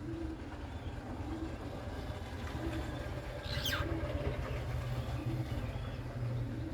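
Steady low rumble, with one quick high chirp from a cockatiel sweeping sharply downward about halfway through.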